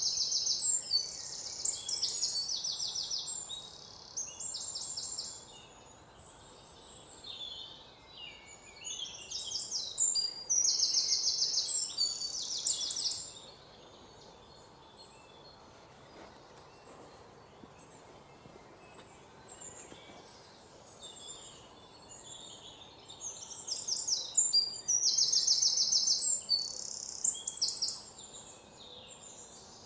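Songbirds singing high, fast trilled phrases in three bouts, with faint scattered chirps over a soft background hiss in the quieter stretches between.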